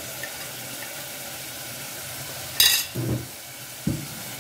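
Tomato masala sizzling steadily in oil in a metal pot. About two and a half seconds in there is a sharp clank, followed by a couple of short scrapes as a slotted spatula starts stirring the spices in.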